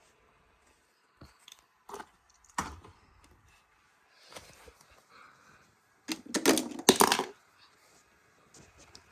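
Scattered clicks and knocks, with a louder cluster of clattering knocks about six to seven seconds in.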